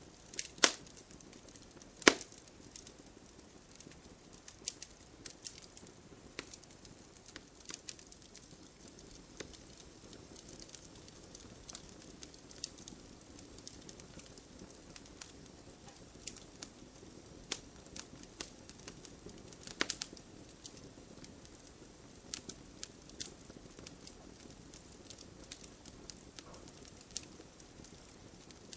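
Fireplace fire crackling: scattered sharp pops and snaps over a soft steady hiss, with the loudest pops about a second in, two seconds in, and again about two-thirds of the way through.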